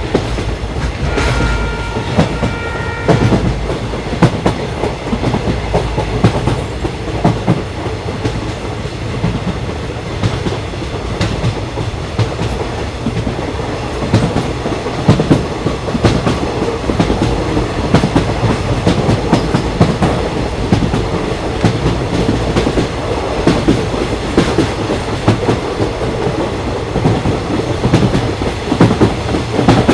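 Train running on rails: a steady low rumble with the clickety-clack knocking of wheels over rail joints throughout. A high steady tone, such as a horn, sounds briefly about a second in.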